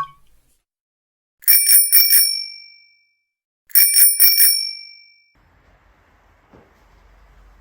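A small bell rung in two quick trills of about four strikes each, a couple of seconds apart, each ringing out briefly.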